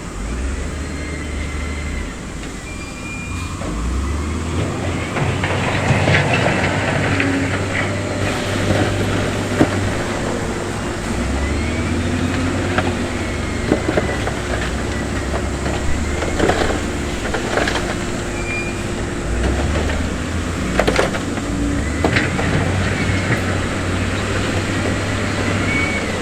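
Heavy diesel construction machinery running with a steady low rumble, with several sharp knocks and clanks scattered through it.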